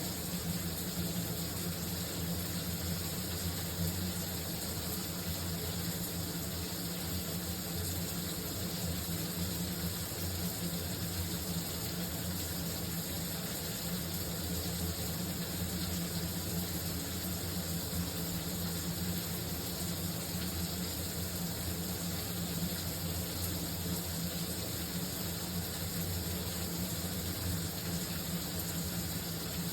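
Shower running: a steady, unbroken spray of water with a low hum beneath it.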